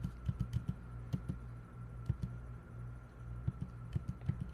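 Light, irregular clicking of computer keys and mouse buttons, often several clicks a second, over a steady low hum.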